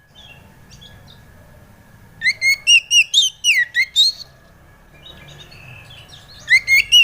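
Oriental magpie-robin (kacer) singing: a quick burst of loud, slurred whistled notes about two seconds in, lasting about two seconds, and another burst starting near the end.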